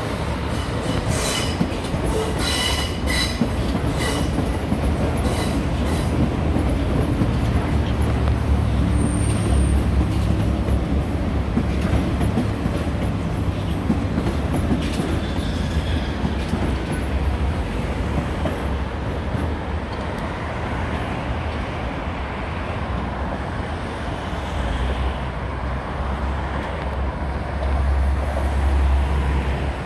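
Athens Metro Line 1 electric train passing close below, its wheels clicking over the rail joints in the first few seconds, with a brief high wheel squeal about nine seconds in, over a steady low rumble.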